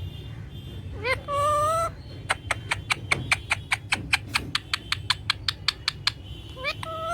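Pet parrot calling: a drawn-out, wavering call about a second in, then a fast run of short sharp chirps, about six a second for some four seconds, and the wavering call again near the end.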